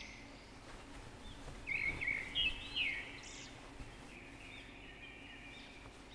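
Small birds chirping, short quick calls, loudest and busiest about two seconds in, over a faint steady hum.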